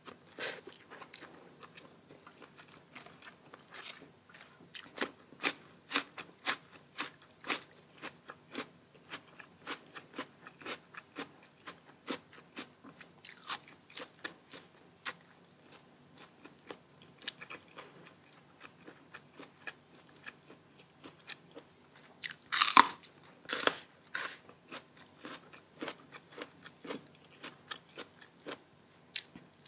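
Close-miked chewing and crunching of crisp food: a quick run of short crisp crunches, a few a second, with a couple of louder bites about three-quarters of the way through.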